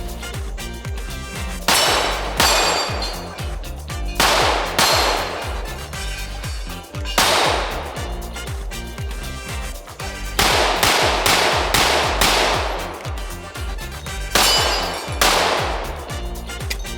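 9mm Glock 17-pattern pistol with a factory-ported Lone Wolf Alphawolf slide fired about a dozen times, singly and in quick strings, each shot ringing out. Background music with a steady beat runs underneath.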